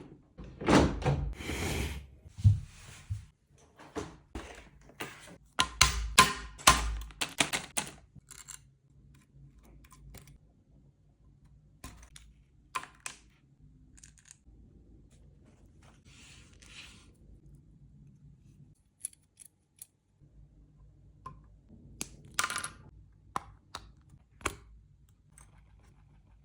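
Packaging being handled and opened by hand: rustling, clicks and knocks, dense and loud for the first several seconds, then only occasional taps and a brief rustle or two.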